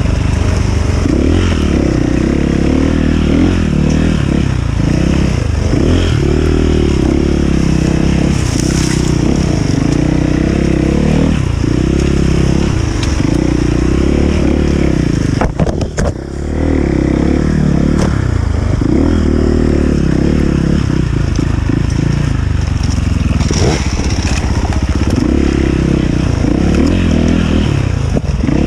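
Enduro dirt bike engine revving up and falling back over and over as it is ridden, about every one to two seconds, with rattling and scraping under it. Halfway through the engine briefly drops off, with a couple of sharp knocks.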